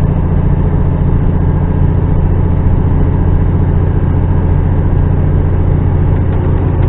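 Loaded HGV's diesel engine labouring up a steep hill in a low gear, heard from inside the cab as a steady, deep drone at an even pitch.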